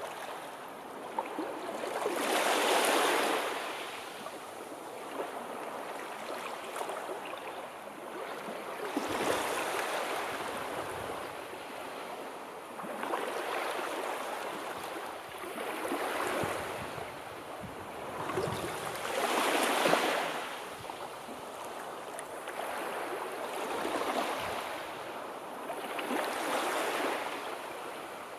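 Sea waves washing in and drawing back, a swell of surf noise every three or four seconds, two of them noticeably louder.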